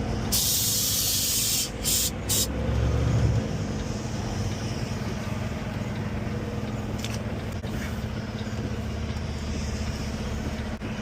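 Semi truck's air brakes releasing: one long hiss of air about a second and a half long, then two short hisses, over the diesel engine's steady running.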